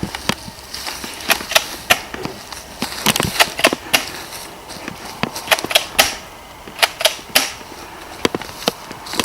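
Airsoft gun fired in quick single shots, about twenty sharp snaps at irregular intervals.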